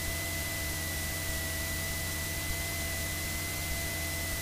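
Steady hiss with a faint constant high-pitched tone and a low hum: the noise floor of a Cessna 172's cockpit intercom audio feed between spoken words.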